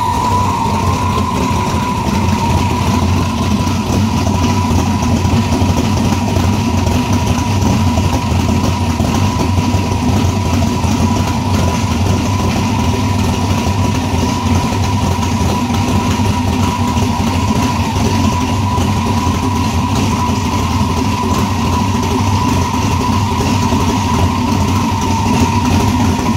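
Twin-turbo Chevrolet V8 idling steadily after start-up, loud and unmuffled, with a steady high-pitched whine over the engine note.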